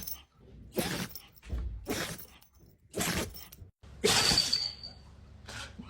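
A dog sneezing again and again: five or six sharp, short sneezes, the loudest about four seconds in.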